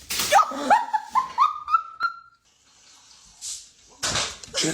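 A dog giving a quick run of about six short, upward-sliding whines or yips, each a little higher than the last, followed by a couple of short breathy noises near the end.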